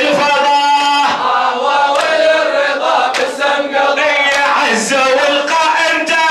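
Men chanting a Shia latmiyya (mourning lament) in unison, with sharp slaps about once a second from rhythmic chest-beating (latm).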